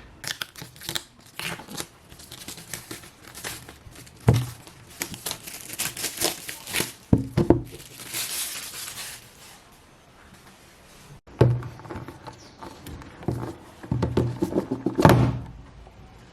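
Packaging crinkling and tearing as a gift is unwrapped, with irregular bursts of rustling and a quieter pause about two-thirds of the way through.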